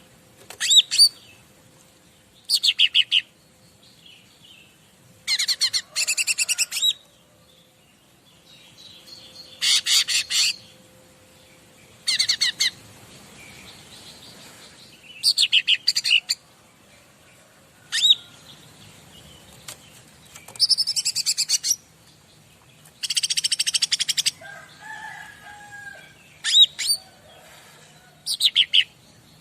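Cica ranting songbird singing: short phrases of rapid, high trilled notes, about a dozen bursts a couple of seconds apart.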